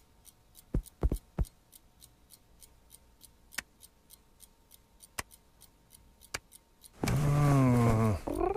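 Cartoon sound effects: a few soft thuds and scattered taps, then about seven seconds in a loud, long, low vocal cry that falls in pitch, followed by a short rising cry.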